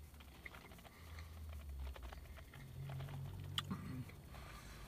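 A person chewing a mouthful of chicken burrito with the mouth closed: faint, scattered soft clicks and smacks.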